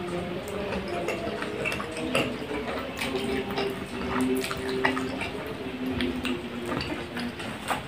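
Close-miked chewing of a soft bread bun with cheese: mouth and smacking sounds with many small clicks. A low hum of held tones that change pitch every so often runs underneath.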